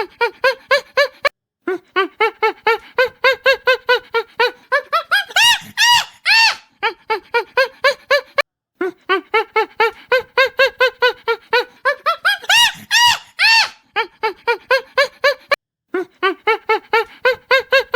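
An animal giving rapid series of short, high-pitched calls, about four or five a second, in bouts broken by brief pauses.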